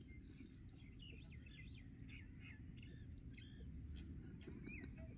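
Faint, scattered chirping of small birds: many short, quick calls, some sliding in pitch, over a low steady outdoor rumble.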